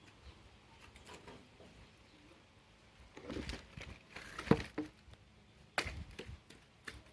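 Scattered knocks and rustles of firewood and branches being handled and stacked. The sharpest knock comes about four and a half seconds in, and others come near the middle and end.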